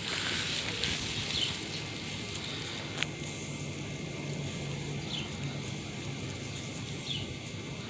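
Outdoor yard ambience: a bird gives short, high, falling chirps every second or two over a low steady hum, with one sharp click about three seconds in.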